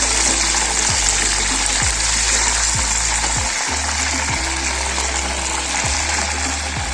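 Chicken frying in hot oil in a kazan, a steady dense sizzle, under background music with a bass line that repeats about once a second.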